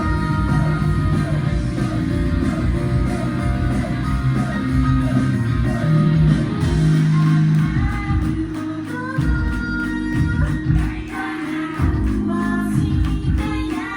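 Live rock-style pop song with a woman singing over loud electric guitar, bass and drums, heard through the hall of a small live house.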